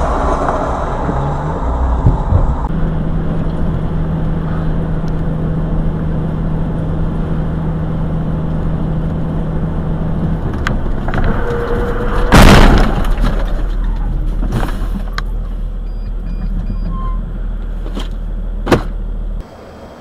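Steady vehicle engine and road noise picked up by a dashcam, with a low hum for several seconds. About twelve seconds in comes one loud, noisy burst lasting about a second, followed later by a few sharp clicks.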